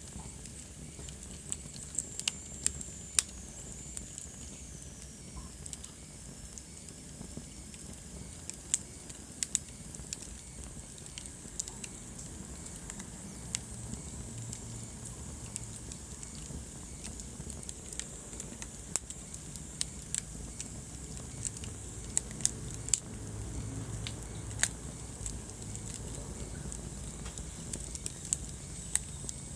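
Wood fire burning in a fireplace: irregular sharp crackles and pops over a steady low rumble of the flames. A faint high whistle slides down in pitch a few seconds in.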